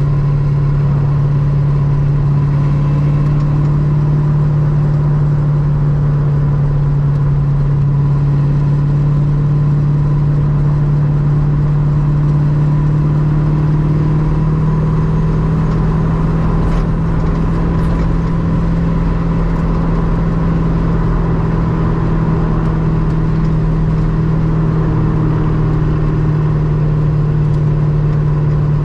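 Ultima RS's GM LS V8 engine running at steady, near-constant revs, as when cruising, with a slight rise in pitch about halfway through.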